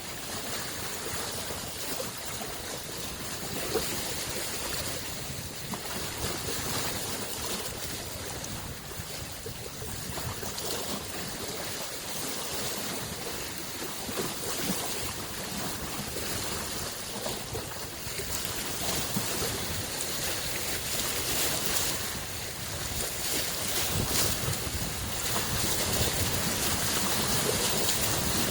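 Small waves on a freshwater lake washing in: a steady rushing wash that swells and ebbs and grows louder in the last several seconds.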